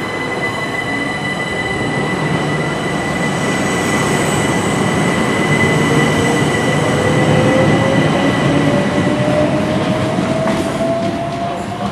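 A passenger multiple-unit train passing on the line, its running noise building to its loudest in the middle and easing off near the end. A steady high whine runs throughout, and a second whine rises slowly in pitch through the second half.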